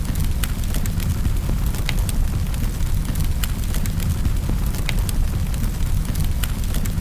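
Wood fire burning in a fireplace: a steady low rumble of the flames with sharp crackles and pops scattered through it, a few a second.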